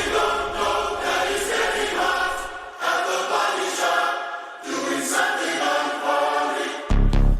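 Choir-like layered singing in sustained phrases, with a heavy, deep bass hit near the end.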